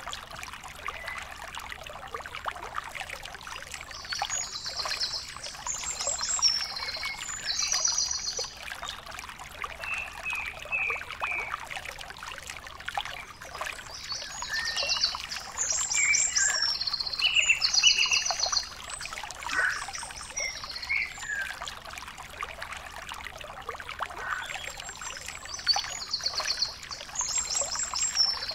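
A bird singing in three bouts of quick, repeated high trilled phrases, with shorter chirps between them, over a steady background hiss.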